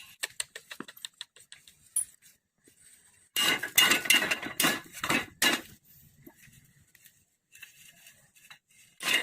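Metal clinking and clattering, as of tools and small metal parts being handled: a few light clicks in the first second, a dense run of clattering from about three and a half to nearly six seconds in, and more starting near the end.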